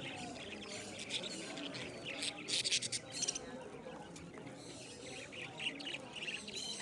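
Pet birds chirping in short, high bursts: a cluster about two to three seconds in, then more around five to six seconds in.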